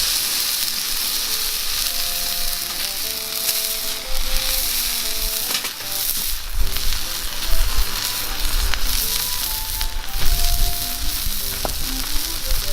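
Steak sizzling steadily in a frying pan over a campfire, with a few pops, over a simple background music melody. Low rumbling comes in from about four seconds in.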